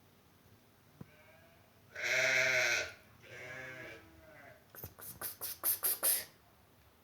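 Domestic cat meowing: one loud drawn-out meow, a softer one right after, then a quick run of about seven short, harsh sounds.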